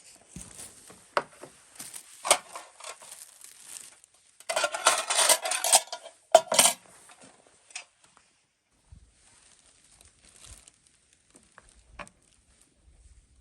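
Camp gear being handled: a run of clicks, knocks and clinks like metal cookware, with a louder rustling, scraping stretch around the middle and two sharp knocks just after it. The sounds then thin out to a few faint ticks.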